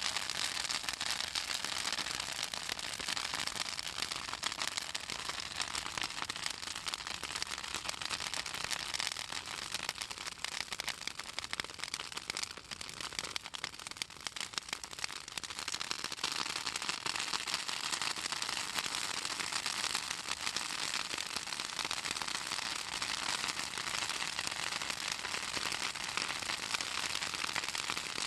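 Pruned southern magnolia branches burning in an open fire, crackling and popping in a dense, continuous run of sharp snaps that eases a little about halfway through. The oil in the wood makes it crackle this way as it burns.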